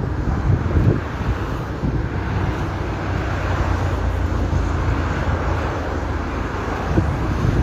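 Steady outdoor background noise with a heavy low rumble, heard through a phone microphone, with a couple of small knocks about a second in and near the end.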